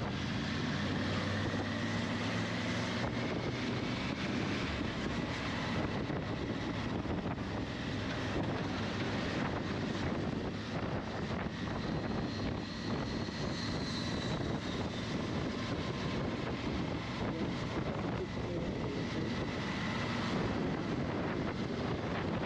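Steady running noise of a vehicle on the move, with wind rushing over the microphone.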